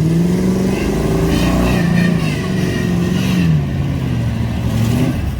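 Off-road vehicle's engine running under varying throttle on a trail, its speed rising and falling several times. It dips lowest a little past the middle.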